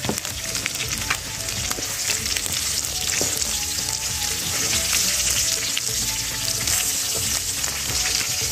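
Quail pieces and sliced garlic sizzling in hot oil in a wok, turned over with a wooden spatula that scrapes and clicks against the pan now and then.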